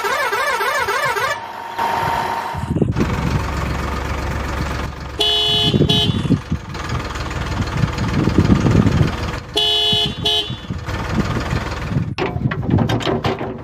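Toy tractor's electronic sound effects: a warbling siren-like tone at the start, then a rumbling engine sound broken by two short horn honks about four seconds apart.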